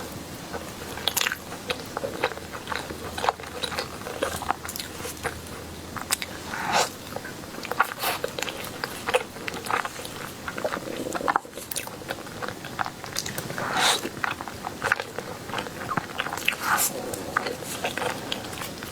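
A person biting and chewing food, with many short, sharp crunchy bites and mouth clicks and a few louder bites.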